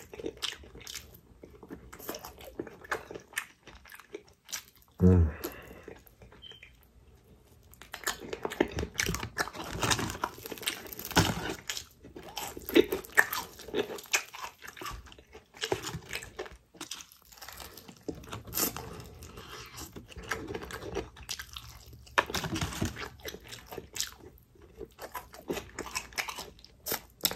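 Crispy fried Popeyes food being bitten and chewed close to the microphone: repeated crunching bites and chewing, thickest from about eight seconds in. A short hum of the voice about five seconds in.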